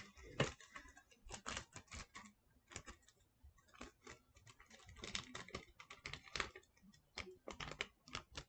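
Faint, irregular crinkling and clicking of hands handling tape while small toe pieces are taped onto a handmade puppet foot.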